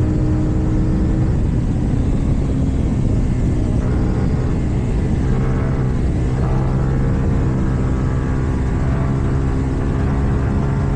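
KTM 790 Duke's parallel-twin engine running through an Akrapovič exhaust at fairly steady revs while riding, the engine note shifting a little about halfway through.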